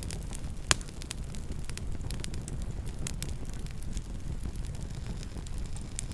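Campfire burning: a steady low rumble of flame with scattered crackles throughout, and one sharp, loud pop less than a second in.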